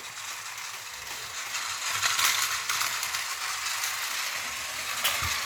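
Battery-powered Plarail toy train (a KTX model) running fast on its plastic track: a steady small-motor whir with a light rattle of wheels on the rails, growing slightly louder.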